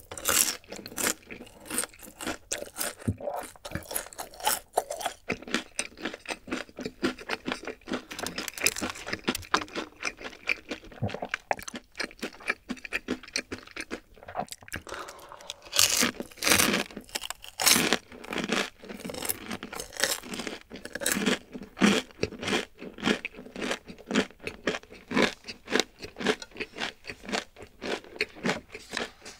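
Close-miked eating sounds: chewing and crunching boneless fried chicken, crisp crackling crunches mixed with wet chewing, with a run of louder crunches about halfway through.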